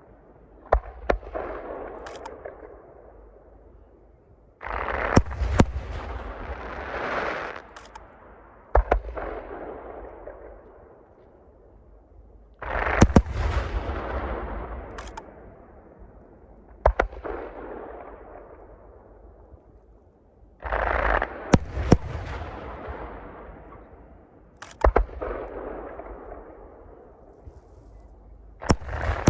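Aerial fireworks shells bursting in the sky: sharp bangs, often two or three close together, in a new volley every four seconds or so. Each volley is followed by a rolling echo that fades over a couple of seconds.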